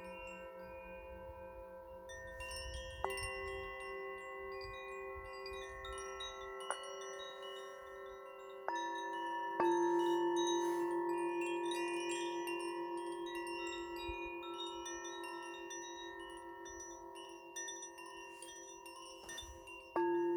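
Tuned metal chimes struck now and then, each strike ringing on in several clear tones that fade slowly with a pulsing waver. The loudest strikes come about halfway through and again near the end.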